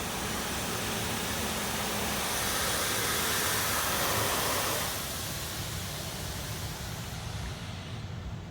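Belanger Vector touchless car wash arm spraying clear coat protectant onto the car, heard from inside the car as a steady hiss of spray. It swells a couple of seconds in and eases off after about five seconds.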